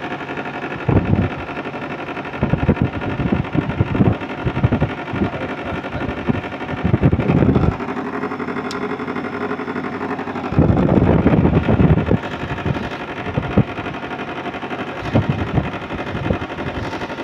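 Window-type air conditioner running with its compressor and fan on: a steady mechanical hum with several fixed tones. Irregular low rumbling bursts come and go over it, the longest about 10 to 12 seconds in.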